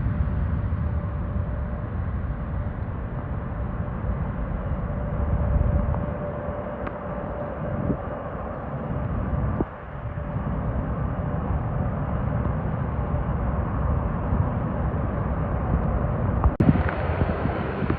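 Jet airliner engines giving a steady low rumble with a faint held whine. There is a sudden click near the end.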